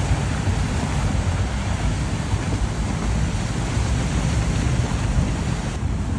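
Mud and debris flow rushing past: a steady, loud rushing noise with a heavy low rumble beneath a hiss.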